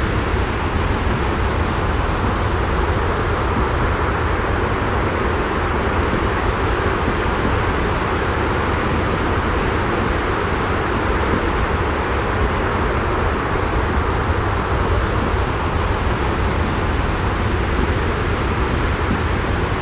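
Steady, unbroken white-noise track with a heavy low rumble, even throughout with no distinct events.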